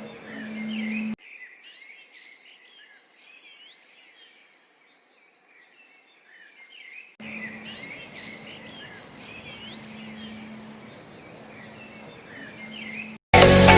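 Many birds chirping and calling at once, short rising and falling chirps overlapping, with a steady low hum under them at the start and again in the second half.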